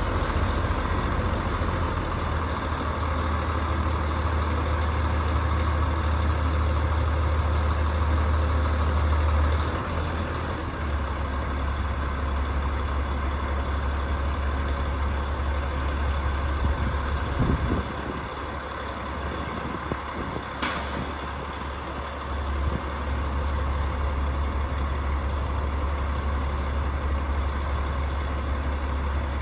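Rooftop HVAC unit running with a steady low mechanical hum. The hum shifts a little in level twice, and a short sharp hiss comes about two-thirds of the way through.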